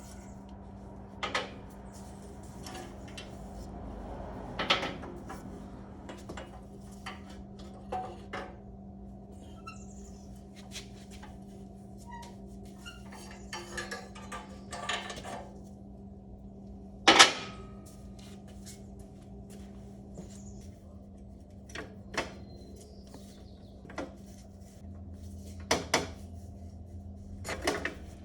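Scattered metal clinks and clanks of motorcycle exhaust pipes and hand tools being handled as the exhaust is taken apart, with one much louder clank about seventeen seconds in. A steady low hum runs underneath.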